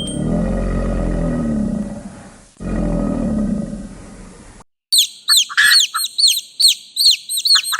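A lion roaring twice, each roar about two seconds long, then, from about five seconds in, a rapid series of high, falling bird chirps.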